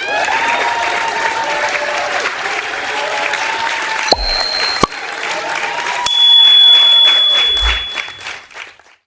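A crowd applauding and cheering, with a couple of whistles. It swells about six seconds in, then fades out.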